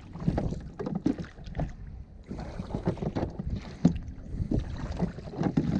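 Water splashing and knocking around a small boat moving through debris-strewn floodwater, with wind rumbling on the microphone.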